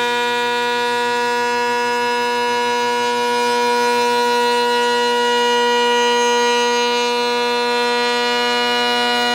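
Woodworking router motor running at a steady speed: a loud, even, high-pitched whine that holds one pitch.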